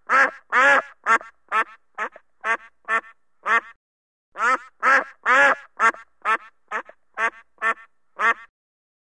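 White domestic ducks quacking: a string of short, loud quacks about two a second, with a brief pause about halfway through.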